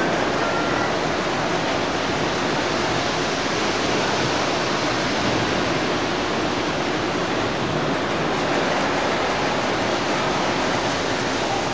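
Steady, even rushing rumble of model trains running on a multi-scale layout, with a brief whistle-like tone right at the start.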